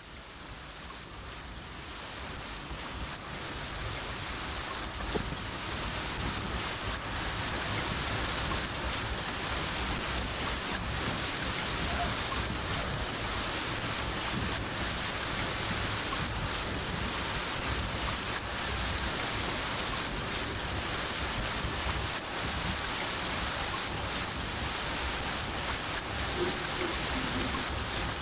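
A cricket chirping in an even rhythm, about two to three chirps a second, over the steady hiss of rain. The sound fades in over the first few seconds.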